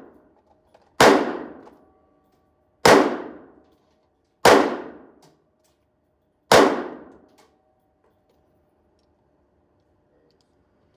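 Four pistol shots fired at an unhurried pace, about one every one and a half to two seconds, each sharp crack ringing out for nearly a second before the next.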